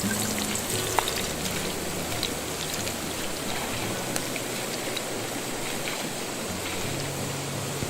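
Steak sizzling in a hot pan: a steady hiss of frying fat with scattered small pops and spits.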